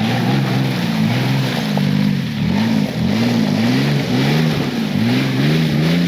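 Off-road truck engine revving up and down in quick repeated swells, a bit more than once a second, as it pushes through mud and water, over a steady hiss.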